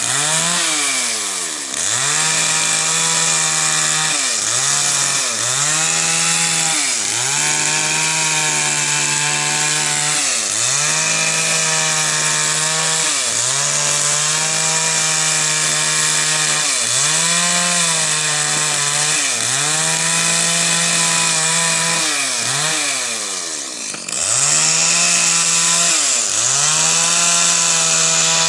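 Small high-revving engine running continuously, its pitch dipping sharply and recovering every one to three seconds as if repeatedly loaded, with a brief lull about two-thirds of the way through.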